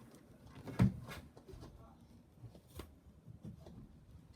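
A single sharp knock about a second in, then a few faint ticks and handling noises.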